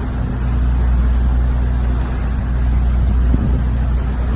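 Fishing boat's engine running steadily under way, a constant low drone with a rushing haze of wind and water over it.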